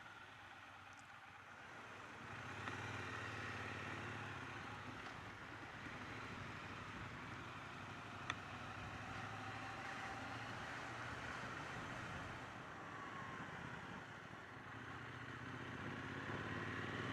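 Triumph Bonneville T120 parallel-twin engine running steadily while riding, faint, picking up about two seconds in and growing louder again near the end. A single sharp click about eight seconds in.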